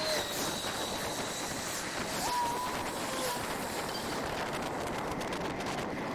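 Steady rushing wind noise on the microphone, as from riding a bicycle at speed, with faint clicks and a brief faint whistle-like tone about two seconds in.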